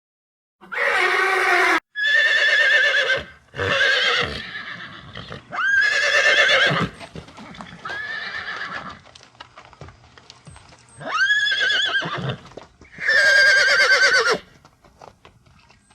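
Horse whinnying repeatedly: about seven shrill, quavering neighs in quick succession, some sweeping up sharply at the start.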